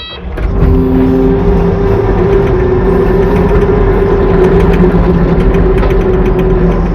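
Engine of a piece of equipment used to move the sawmill and spread gravel, coming up loudly about a third of a second in and then running steadily at high level.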